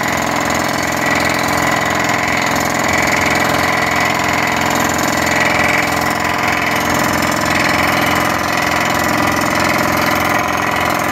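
Drilling rig at work: its engine and compressor run steadily under a fast, even knocking. The sound cuts off suddenly at the end.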